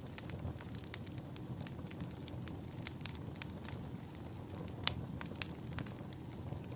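Wood fire crackling in a fireplace: a steady low rumble with frequent sharp pops and snaps, and one louder pop about five seconds in.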